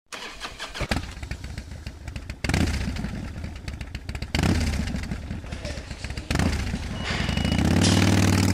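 Motorcycle engine running in several short, abruptly cut segments, rising in pitch near the end as it revs.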